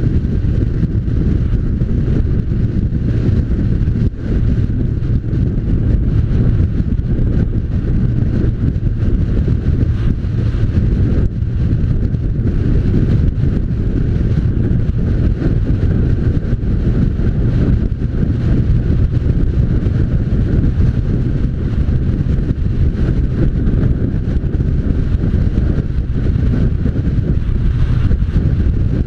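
Motorcycle riding along, mostly heard as steady wind buffeting on the microphone with engine and road noise under it.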